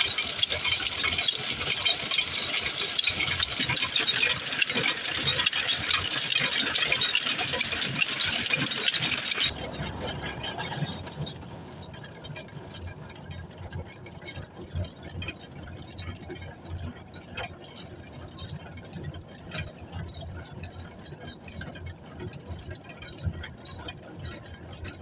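Diesel engine running with a rattle. A loud, hissing clatter rides over it and cuts off suddenly about ten seconds in, leaving a quieter, uneven low running with small clicks.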